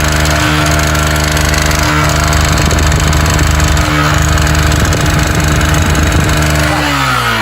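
Motorcycle engine, 17 years old and never opened, held steadily at raised revs, then dropping back toward idle near the end. There is no connecting-rod knock; the engine is smoking, which the mechanic puts down to a worn cylinder kit and valve seals.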